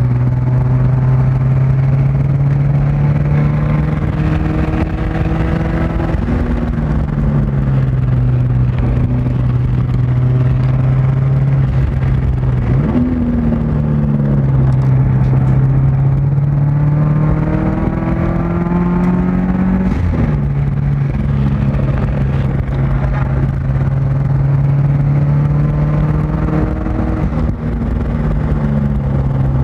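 Subaru Outback XT's turbocharged flat-four engine heard from inside the cabin while lapping a race track. Its pitch climbs under acceleration and falls sharply about every six to seven seconds, at shifts and when slowing for corners.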